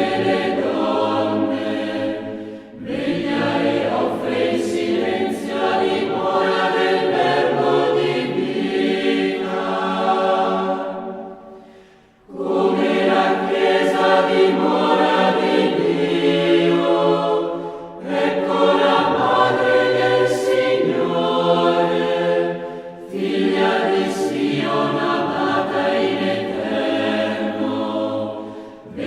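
Choir singing sustained, chant-like phrases in several voices, with short pauses between phrases.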